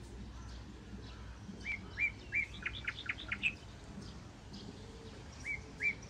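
A songbird singing: three short slurred notes, then a quick run of higher, sharper notes, starting about a second and a half in; the same phrase begins again near the end. A low steady hum runs underneath.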